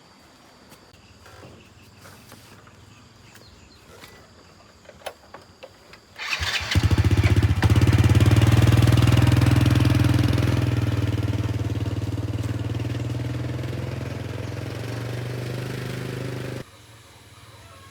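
A few faint clicks, then about six seconds in a motorbike engine starts and runs steadily, slowly getting quieter before it cuts off abruptly near the end.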